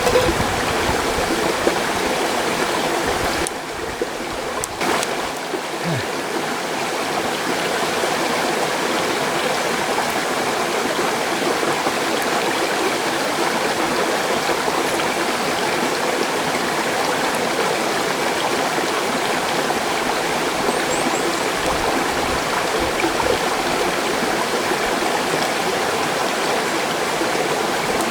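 Mountain stream rushing steadily over rocks, with one faint click about five seconds in.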